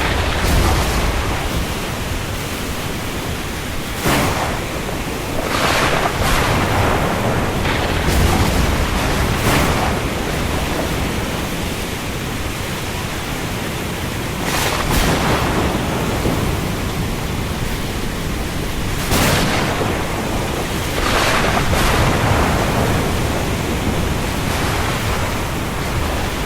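Rain falling on the open sea as a steady hiss, with waves and gusts of wind surging up every few seconds.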